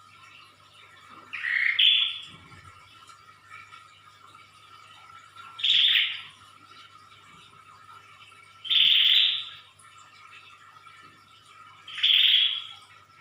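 Prenjak (prinia) calling in short, loud bursts, four times, about three seconds apart, over a faint steady hum.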